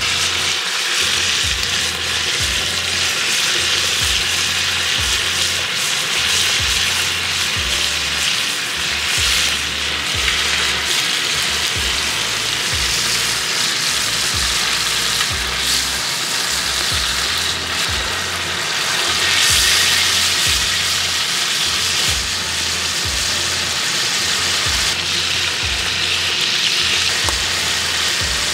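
Chicken breast pieces sizzling steadily in a hot pan with cognac added, the alcohol cooking off.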